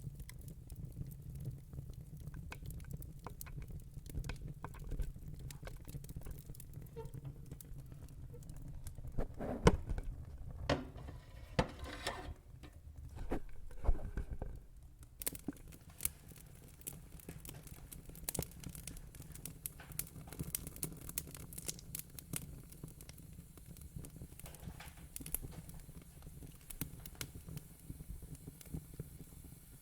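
Wood fire in a fire pit crackling, with irregular sharp pops over a low steady rumble; the pops come thicker and louder from about a third of the way in to the middle, then thin out again.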